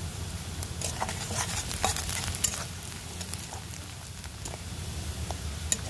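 Chopped onions sizzling in oil in an iron kadai while chilli powder is stirred in. A spatula clicks and scrapes against the pan, mostly in the first half, with one more sharp click near the end.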